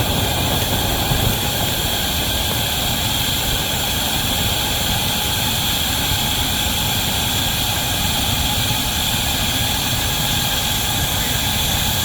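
Wabash #713 steam locomotive and its heavy train: a steady rumble with a continuous hiss over it, unchanging, with no distinct exhaust beats.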